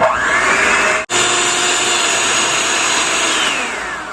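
Electric mixer beating egg whites at speed toward stiff peaks: a steady motor whine with the whir of the beaters, a brief break about a second in, and the motor winding down in pitch near the end.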